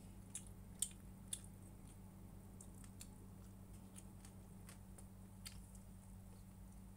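Faint eating sounds, chewing and small mouth clicks, scattered and irregular, with the sharpest clicks about a second in. A steady low electrical hum runs underneath.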